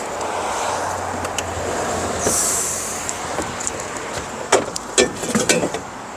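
A heavy vehicle rumbling past, swelling and then fading, with a short hiss about two seconds in. Several sharp knocks and clatters near the end.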